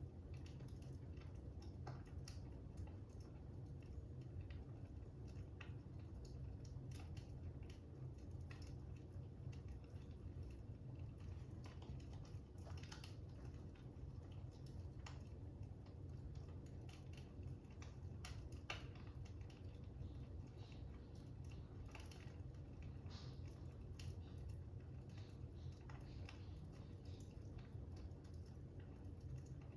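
Fire crackling: irregular small snaps and pops over a low, steady rumble.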